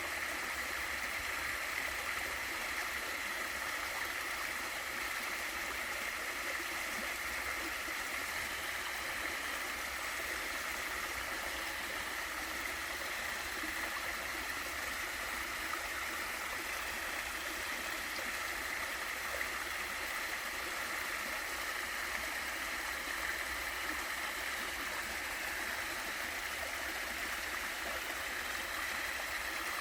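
Small waterfall in a mountain stream: a steady rush of falling and running water, with a brighter hiss in the middle-high range and no pauses.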